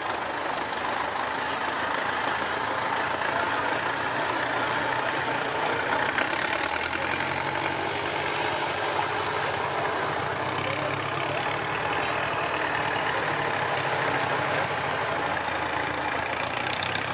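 IFA W50 truck's diesel engine running under load, its note settling into a steady drone from about seven seconds in. A short hiss of air sounds about four seconds in.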